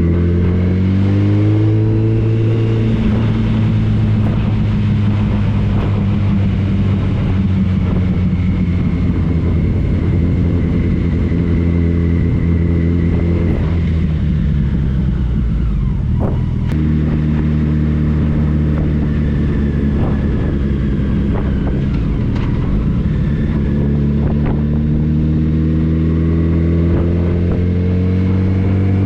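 Touring motorcycle engine running on the road over wind and road noise. Its pitch rises as it accelerates about a second in, holds steady, dips briefly about halfway through, and rises again in the last few seconds.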